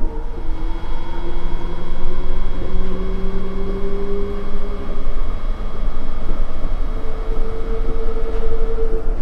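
Nippori-Toneri Liner 330-series rubber-tyred automated guideway train running between stations, heard from inside the car. Dense running noise with a motor whine that rises in pitch over the first four seconds or so, then a steady tone near the end.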